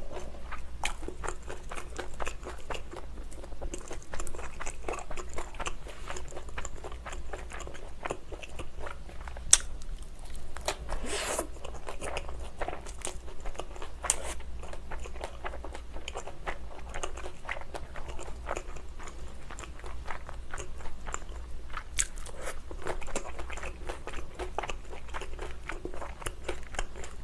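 Close-miked chewing and biting of thin-crust cheese pizza: a steady run of small crunches and wet mouth clicks, with a few louder crunches of the crust.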